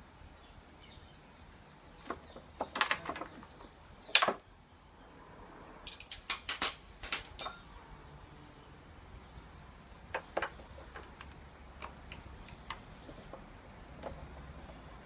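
Metal clinks and clatter of hand tools and parts being handled, in scattered bursts with a quick run of ringing metallic taps midway.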